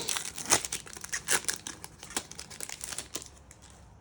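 Foil trading-card booster pack crinkling and tearing open, in a quick run of sharp crackles that thin out near the end.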